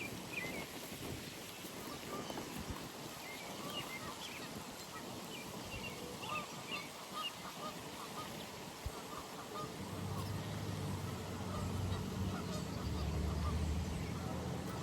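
Geese honking at a pond, a scatter of short repeated calls. From about two-thirds of the way in, the low hum of a passing vehicle's engine grows louder and peaks near the end.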